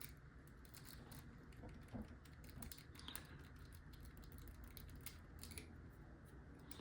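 Faint, irregular metallic clicks of a lock pick and tension wrench working the pins inside an Abus 72/40 padlock's keyway.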